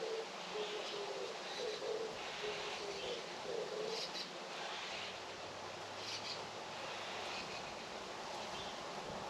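A dove cooing in a run of short, low, repeated notes for the first few seconds, with small birds chirping now and then over a steady outdoor hiss.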